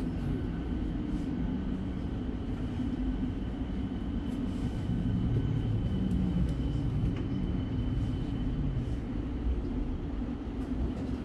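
Siemens Nexas electric train heard from inside the carriage, running with a steady low rumble as it slows to arrive at a station. A faint high whine sits over the rumble and stops about nine seconds in.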